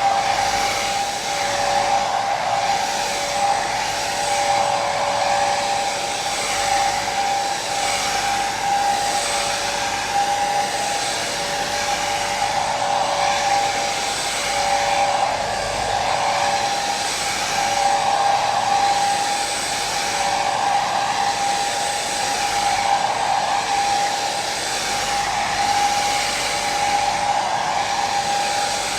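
Hair dryer running continuously: a steady rush of air with a high motor whine held on one pitch, and a second, lower whine that fades in and out every few seconds.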